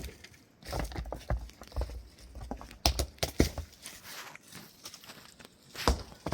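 Irregular knocks and clatters, a few of them sharp, over a low rumble.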